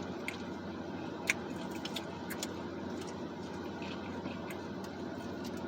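Steady low hum inside a parked car's cabin, with a few faint scattered clicks and taps.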